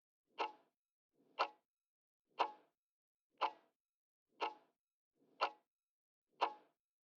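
Countdown-timer clock ticking, one tick a second, seven ticks in all, while a quiz answer is awaited.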